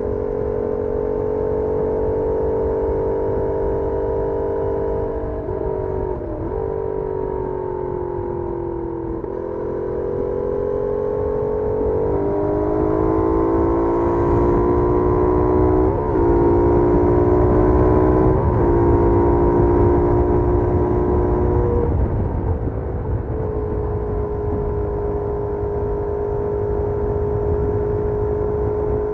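Benelli Leoncino 800's 754 cc parallel-twin engine running on the stock exhaust while riding, with wind rumble on the microphone. The engine note climbs and grows louder in the middle, dipping briefly several times, then eases back to a steady cruise near the end.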